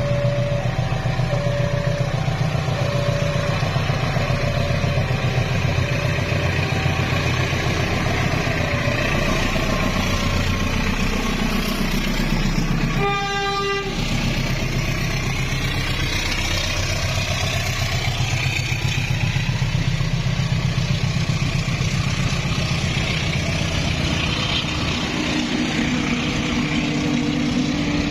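A train hauled by a diesel locomotive runs past with a steady heavy rumble. For the first several seconds an alternating two-note warning tone sounds, and about 13 seconds in the locomotive gives one short horn blast.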